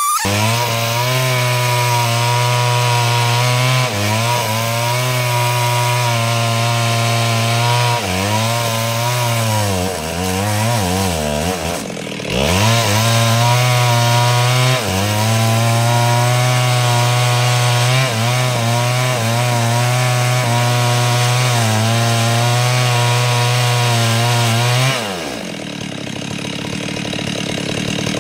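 Stihl two-stroke chainsaw running at full throttle, ripping timber lengthwise into planks. The engine bogs and wavers under load partway through, drops briefly, then picks up again. Near the end it falls away and revs back up.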